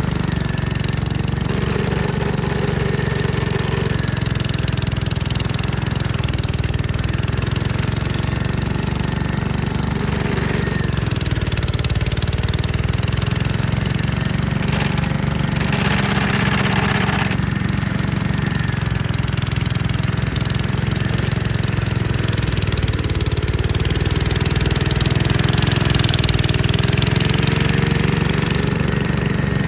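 Gravely Commercial 10A walk-behind tractor's engine running steadily while driving a Dogeater snowblower, its pitch sagging under load and recovering several times. A short rushing noise sounds about halfway through.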